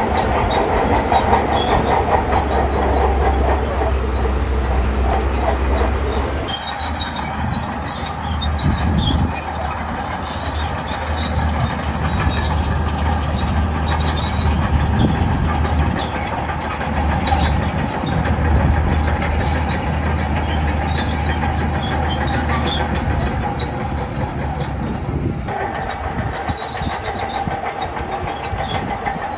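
Shantui crawler bulldozer working: its diesel engine runs with a steady low rumble, while its steel tracks clank with scattered metallic clicks. The sound shifts abruptly twice, about six seconds in and again near the end.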